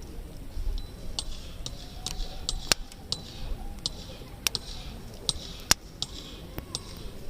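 Wood campfire crackling, with irregular sharp pops and snaps from the burning logs.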